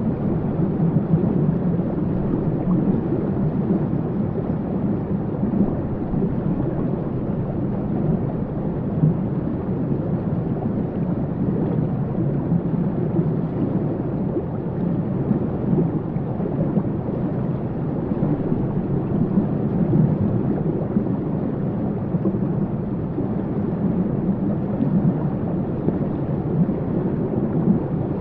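Waterfall: a steady, deep rush of falling water, mostly low in pitch.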